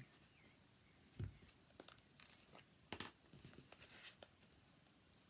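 Faint handling of paper and card: light rustles and a few soft taps, with the two clearest knocks about a second in and about three seconds in.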